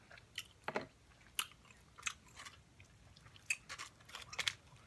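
A person chewing and biting food close to the microphone, with irregular short crunches and mouth clicks.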